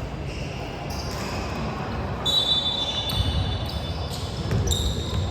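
Indoor basketball game sound: a ball bouncing on a hardwood court amid the gym's steady background noise. About two seconds in, a high, steady tone sounds for over a second.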